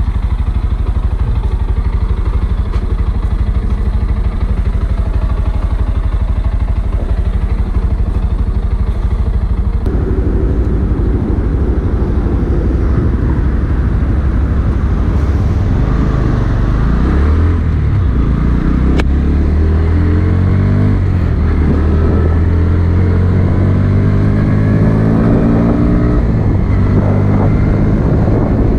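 Motorcycle engine running steadily at low revs, then from about ten seconds in accelerating, its pitch rising and dropping back again and again with gear changes.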